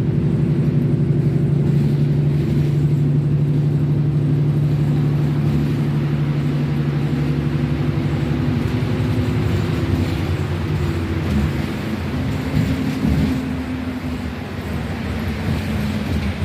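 A motor vehicle's engine running steadily. About eight to ten seconds in, its note shifts and it gets slightly quieter.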